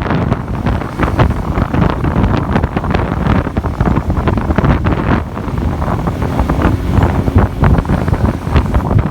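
Heavy wind buffeting the microphone on a moving motorbike taxi, with the motorbike and road noise underneath.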